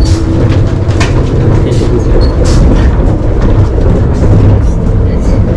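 Passenger train running, heard from inside the carriage: a steady, loud low rumble with a few short clicks and knocks.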